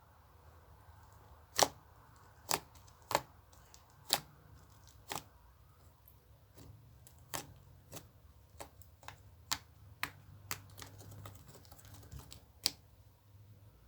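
A series of sharp, irregular clicks and taps: a few loud ones spaced about a second apart, then a quicker scatter of fainter ones, with one loud click near the end, over a faint low hum.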